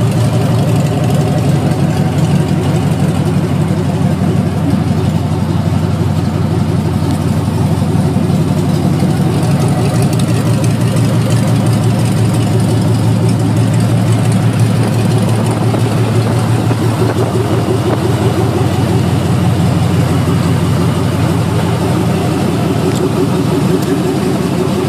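GM LS1 5.7-litre V8, swapped into a Jeep, idling steadily.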